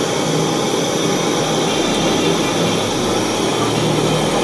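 Steady hiss of a soldering torch flame heating a metal eyeglass-frame part for silver soldering.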